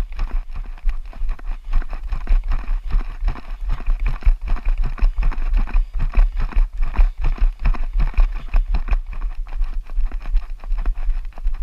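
Footsteps of a runner in an obstacle-course race, an even pounding rhythm of about three steps a second, over a steady low rumble.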